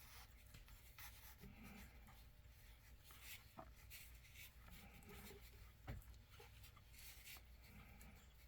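Faint rustling and scratching of nursing puppies shifting against their mother and the bedding, with a few soft clicks, the loudest about six seconds in.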